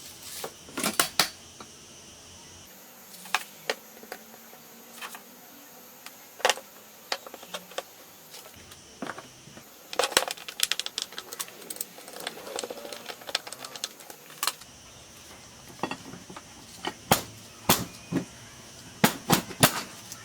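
Irregular sharp clicks and clinks of small metal parts and hand tools being handled and fitted, coming in short clusters and busiest about halfway through.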